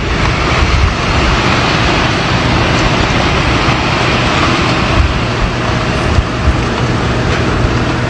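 Steady road-vehicle noise: a continuous rush with a low rumble and a faint steady hum.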